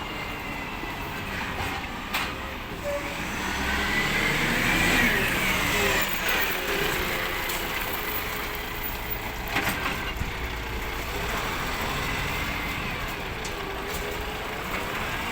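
Recycling collection truck working, its engine running steadily. A whine rises and falls a few seconds in, and there are a couple of sharp knocks, one early and one near the middle.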